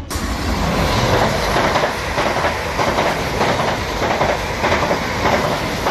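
South Western Railway passenger train passing close by at speed, its wheels clattering rhythmically over the rail joints.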